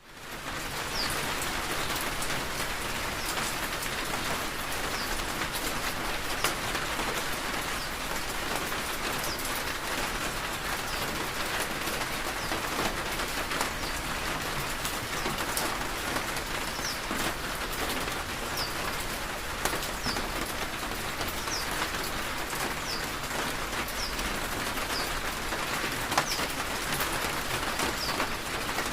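Steady rain falling, with scattered sharp drip clicks, and a bird giving short high chirps every second or two.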